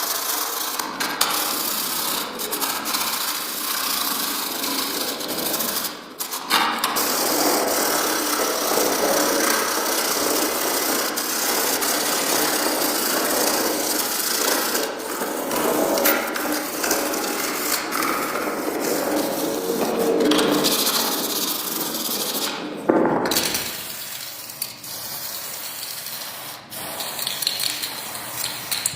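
A small power tool running steadily against a workpiece, with a short break about six seconds in; it stops near the end, leaving a quieter working sound.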